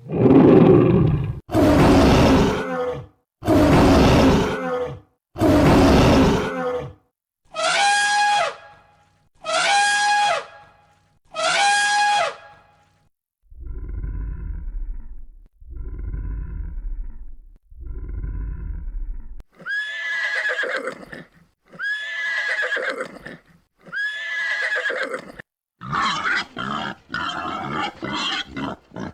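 A sequence of different animal calls, each kind repeated about three times with short silent gaps between. The run goes: loud harsh calls, then higher pitched calls, then low calls, then calls that start high and fall, and near the end a quick series of short calls.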